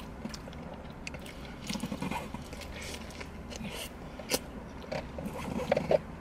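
Close-up eating sounds: a burger being bitten and chewed, with irregular wet mouth smacks and clicks. A low steady hum runs underneath.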